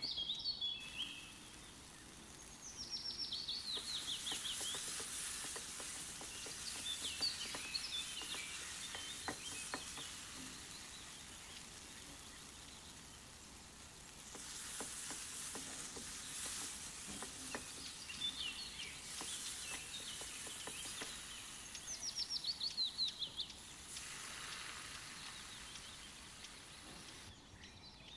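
Spiced onion-tomato masala sizzling in mustard oil in a nonstick pan, stirred and scraped with a wooden spatula, the frying hiss coming and going in stretches. A bird's rapid falling trill sounds a few times, loudest about 22 seconds in.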